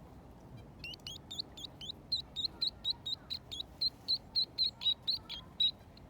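A small songbird singing a long run of quick, high repeated notes, about four a second, starting about a second in and stopping shortly before the end.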